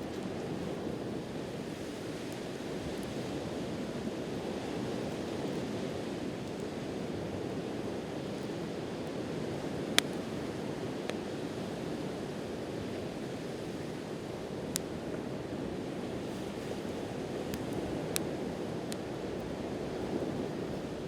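Campfire crackling with a few scattered sharp pops, the loudest about halfway through, over a steady wash of waves breaking on the shore.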